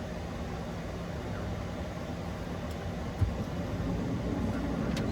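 Steady rushing noise of airflow and engines on a Boeing 737-800 flight deck during approach, with a single low thump about three seconds in and a faint click near the end.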